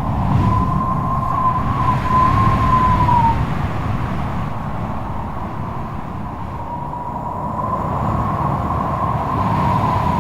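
Strong gusting wind with a rumbling roar and a thin, wavering howling whistle; the whistle dips and drops away about three seconds in, then comes back about six seconds in.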